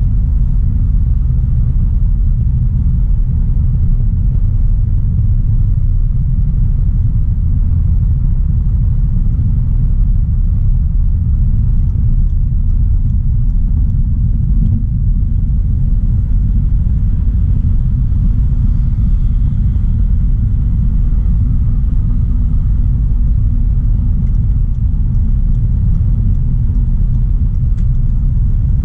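A 2016 Audi A3 Sportback 1.4 TFSI driving at a steady pace: a low, even rumble of road and engine noise with no revving or gear changes.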